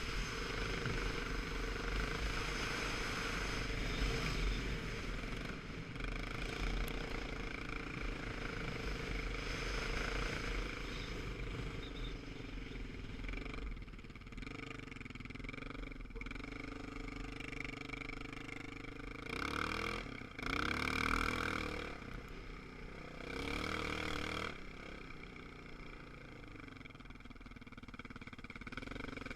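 Motorcycle engine running steadily with wind noise, swelling louder with a shift in pitch twice, about two-thirds of the way through.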